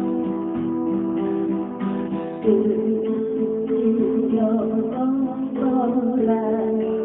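Acoustic guitar being strummed in steady chords, the chord changing about two and a half seconds in.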